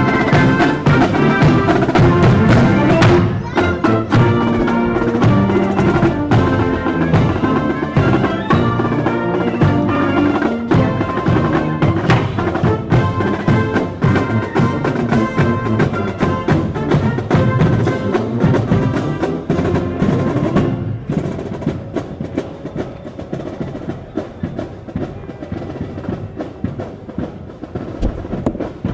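Military marching band playing: brass with snare and bass drums. About two-thirds of the way in the brass drops out and the drums carry on alone with a rapid snare cadence.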